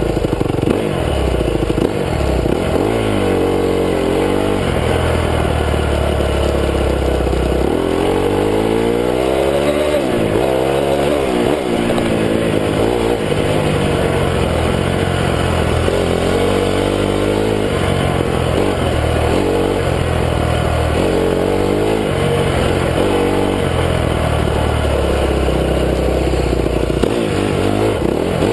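2009 Honda CRF250 motocross bike's four-stroke single-cylinder engine revving up and down over and over as it is ridden hard, heard close up from a camera mounted on the bike.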